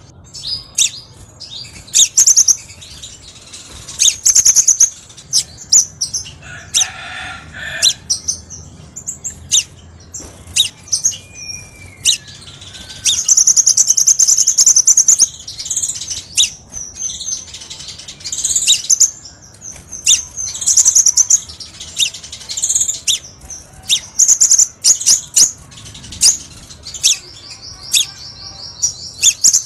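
Crimson sunbird (kolibri sepah raja) singing: a run of sharp, high-pitched chips and fast trills, with a longer rattling trill near the middle and another near the end.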